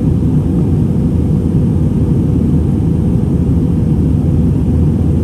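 Steady low rumble of a jet airliner's engines and airflow heard from inside the passenger cabin in flight, even and unchanging.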